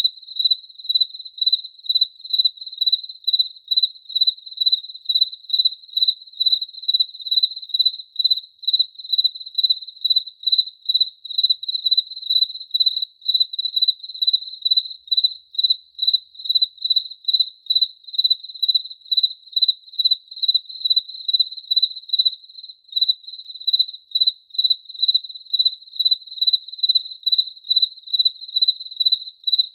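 Cricket chirping: one high, steady-pitched chirp repeated evenly, about three times a second.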